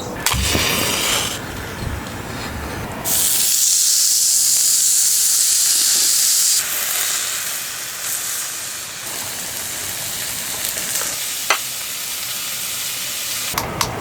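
Steady high-pitched hiss that comes in suddenly about three seconds in, loudest for a few seconds, then drops to a fainter hiss that carries on until near the end.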